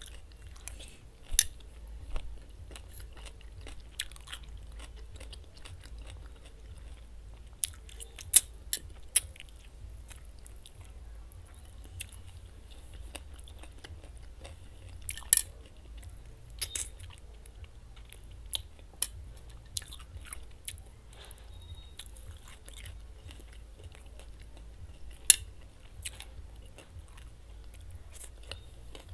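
Close-miked eating sounds: a person chewing chopped cucumber and carrot salad, with crisp crunches and sharp wet clicks coming irregularly, a few much louder snaps standing out.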